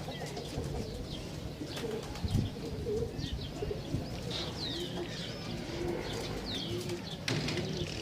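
Homing pigeons cooing over and over, with short, high, falling chirps from smaller birds over the coos.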